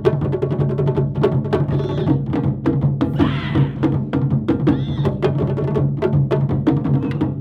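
Japanese taiko drum ensemble playing a fast, dense rhythm of strokes, mixed with sharp wooden clicks, over a steady low ring. A few brief sliding higher sounds rise above the drumming.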